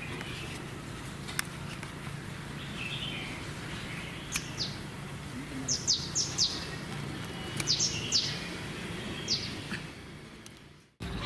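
Birds chirping: short, high, falling calls in small clusters over a steady outdoor background hum. The sound fades out and cuts off just before the end.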